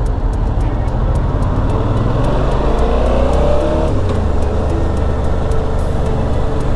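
Motorcycle engine running on the move, with wind noise. The revs climb about two seconds in and drop back after about four seconds.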